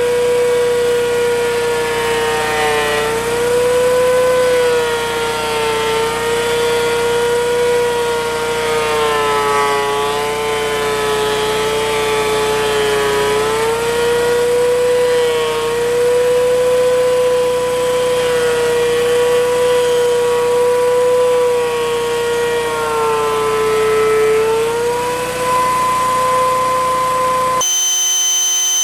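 Planer motor running with a steady whine, its pitch sagging several times and recovering as rough lumber feeds through and is cut. About a second before the end it cuts abruptly to a different steady buzzing tone.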